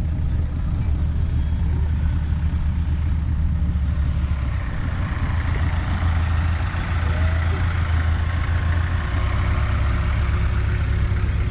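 A vehicle engine running steadily at low revs with a deep, even hum. A higher hiss builds in about four and a half seconds in.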